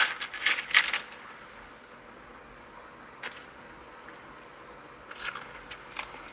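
A quick run of sharp little clicks and taps in the first second, one more click a little after three seconds, and a few softer ones between five and six seconds, over faint hiss.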